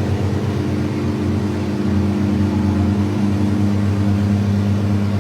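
Apollo IE's naturally aspirated V12 running steadily at low revs, a deep even engine note.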